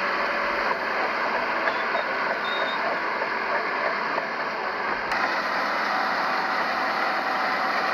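Heavy earthmoving machinery, bulldozer and dump trucks, running steadily as a continuous engine and mechanical noise. There is a brief sharp click a little past five seconds in.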